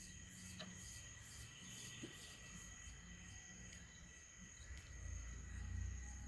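Faint insects chirring, a steady high-pitched drone with a soft pulsing over it, with a low rumble swelling about five seconds in.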